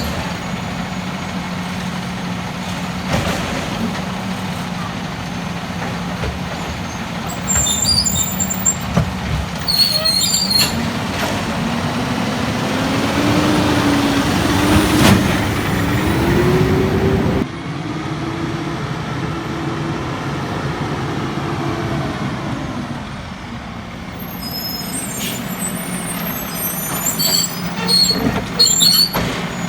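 Peterbilt 320 garbage truck with a Labrie Automizer automated side-loader body running, its engine revving up in a rising whine for about six seconds and then dropping back abruptly, as the hydraulic arm works a cart. Short air-brake hisses and clatters break in a few times, including several near the end.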